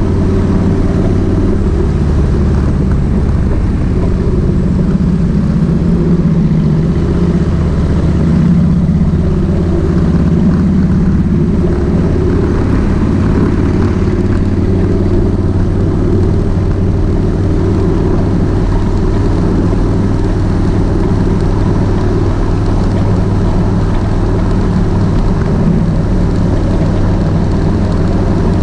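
Kawasaki VN 1600 Mean Streak's V-twin engine running at steady revs, its pitch holding nearly constant.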